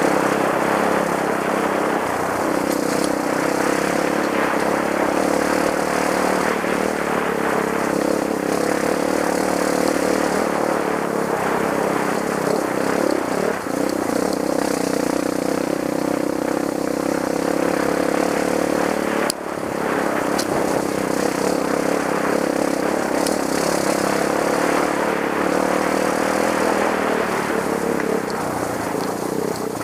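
Trail motorcycle engine running at fairly steady revs, easing off briefly twice, with a single sharp click about two-thirds of the way in.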